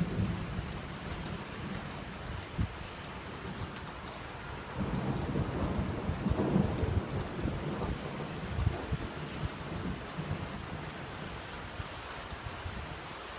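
Steady rain with thunder: a low rumble swells up about five seconds in and rolls on for a few seconds before fading back into the rain.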